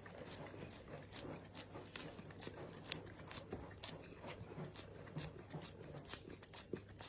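Faint crunching chews, about two or three a second, over a low steady hum.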